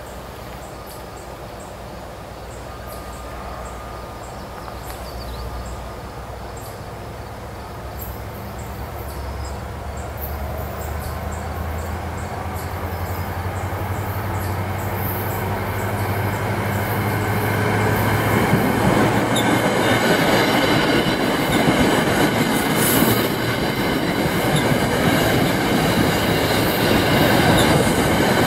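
New Jersey Transit commuter train approaching and passing: a low engine drone builds over the first half, then the rumble of wheels on rail takes over and keeps growing louder, with thin steady high tones above it as the coaches go by.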